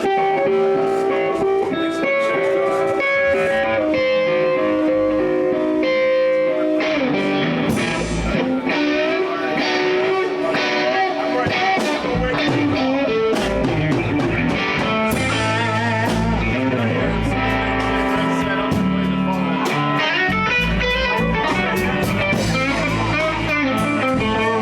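Live blues band starting a slow blues: electric guitar plays the intro alone with long held notes, then drums and bass come in about seven seconds in and the full band plays on.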